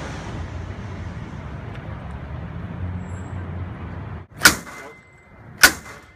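A steady low rumble, then two sharp metal strikes of a door-breaching ram against a practice door, about a second apart, each leaving a ringing metallic tone.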